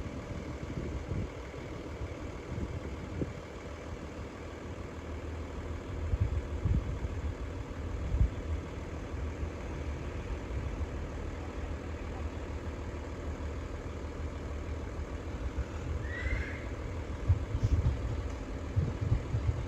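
Low, steady rumble of a diesel passenger train's engines as it pulls away from the station. About 16 seconds in, a brief high cry cuts across it.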